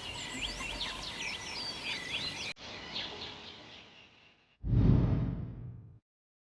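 Birds calling and chirping over an outdoor background hiss, in short edited pieces with an abrupt cut about two and a half seconds in. Near the end a sudden, much louder low rumble sets in and fades away over about a second and a half.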